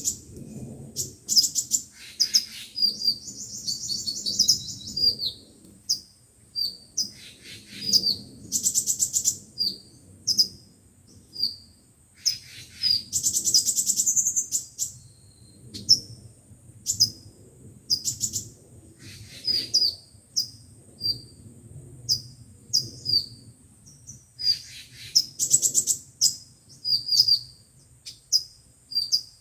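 Sunbirds calling: short, high, sharp chirps repeated every second or so, broken every few seconds by buzzy, rattling trills. This is the kind of sunbird call played through a speaker as a lure for trapping.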